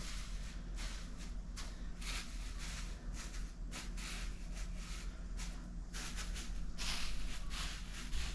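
Shuffling and rustling movements in irregular short bursts over a steady low hum, with the busiest rustling a little before the end.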